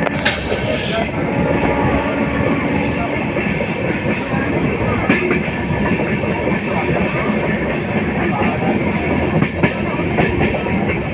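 Train running on the track: a steady, loud rumble and clatter of wheels on rails, with a thin high-pitched squeal that comes and goes and a few sharp clicks near the end.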